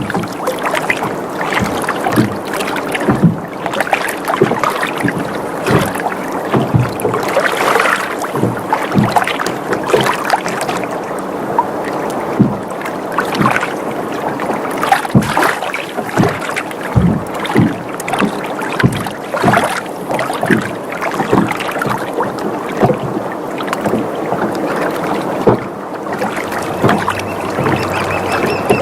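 Water sloshing and lapping against a sailboat's hull, with frequent short, irregular knocks and creaks from the boat as it rocks.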